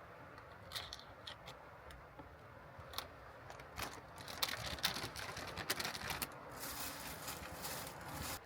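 Small clicks, taps and scraping of things being handled inside a van, over the steady hiss of heavy rain on the vehicle. A rustling swish lasts for about two seconds near the end.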